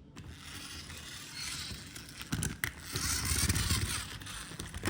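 Plastic toy monster truck being handled: scraping and rattling, with a few sharp clicks about two and a half seconds in.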